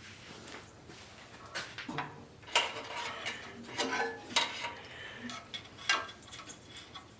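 Small metal objects clinking and clattering as they are handled, in an irregular run of knocks and rattles, loudest a couple of seconds in, with one last sharp clink near the end.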